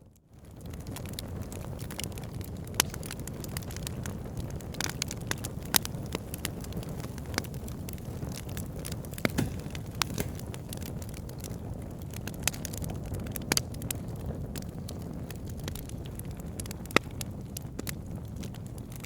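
Wood fire burning in a fireplace: a steady low rumble with frequent sharp crackles and pops at irregular intervals. The sound dips out and fades back in at the very start.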